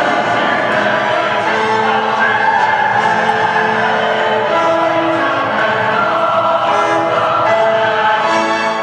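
Choral music, voices singing long held chords over an orchestral backing: the show's soundtrack played through large overhead speakers.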